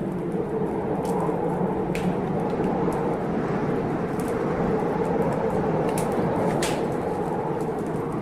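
Blizzard wind blowing steadily outside, with a wood fire crackling in a fireplace: a few sharp pops and snaps over the steady wind noise.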